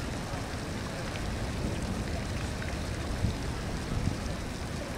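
Steady rain falling, with a low, uneven rumble underneath and a couple of small bumps near the end.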